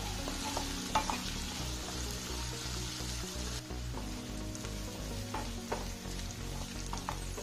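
Sliced onions sizzling in hot mustard oil in a stone-coated frying pan while a wooden spatula stirs them. The spatula scrapes and knocks on the pan a few times over a steady frying hiss.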